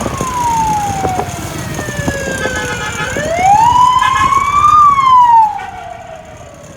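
A siren wailing, its pitch sliding slowly down, back up and down again, loudest in the middle and dropping away sharply about five and a half seconds in, over a low rumble of traffic.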